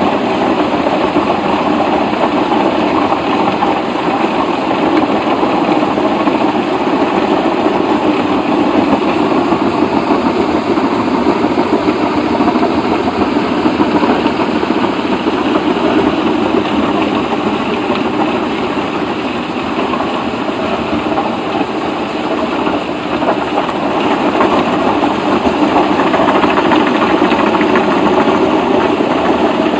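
Heavy machinery running steadily, a loud continuous mechanical din with no clear rhythm or change.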